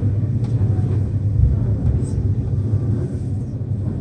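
Nankai Airport Line train running, heard from inside the carriage: a steady low rumble of wheels and running gear on the rails, with a few faint clicks.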